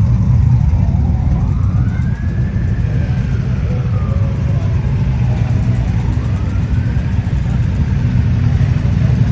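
Motorcycle engines rumbling steadily, with a siren wailing faintly in the background, its pitch slowly rising and falling.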